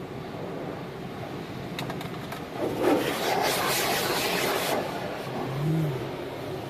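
Automatic car wash heard from inside the car's cabin: a steady low rumble of the wash machinery, a few sharp clicks, then a loud hiss of water spray hitting the car for about two seconds.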